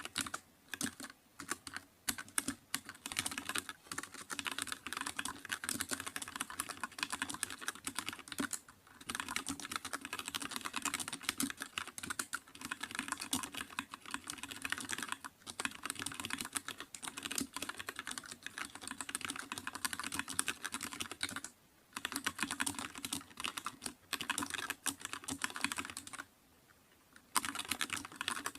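Computer keyboard being typed on quickly and continuously, a dense run of key clicks broken by brief pauses, with a longer pause of about a second near the end.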